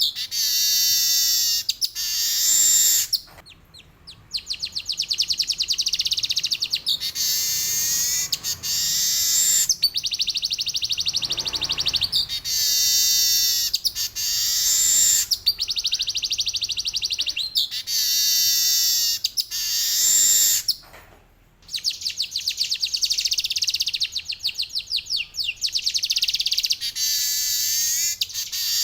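Male manyar weaver bird singing long, rapid buzzy rolls, one after another, each about two to three seconds long and often opening with a few quick falling notes. The song breaks off briefly twice.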